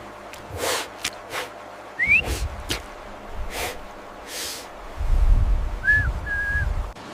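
High-pitched otter whimpers and squeaks: one short rising squeak about two seconds in and two short level squeaks near the end, among soft scratching and rustling noises. A low rumble comes in for the last two seconds.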